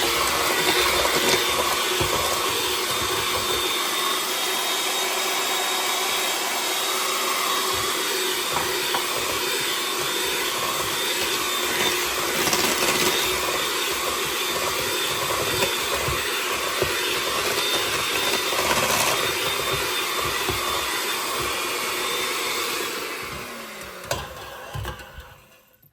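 Electric mixer running steadily as it beats banana bread batter, then switched off near the end and winding down.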